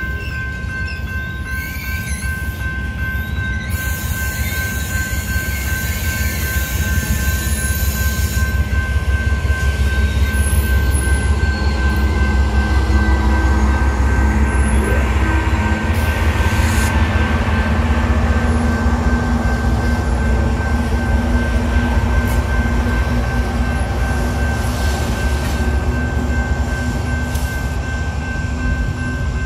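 Freight train of covered hopper cars rolling through a grade crossing, the wheels rumbling on the rails and swelling as trailing GE diesel locomotives, including ES44C4 4259, pass about halfway through. The crossing's electronic bell rings throughout as a steady high tone over the rumble.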